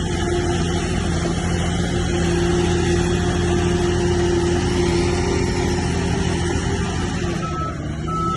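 Heavy diesel engine of earthmoving machinery running steadily at a constant pitch, easing off slightly near the end.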